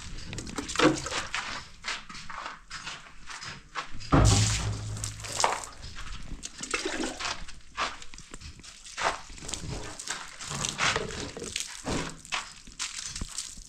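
Water sloshing and splashing, with irregular knocks and one heavy thump about four seconds in.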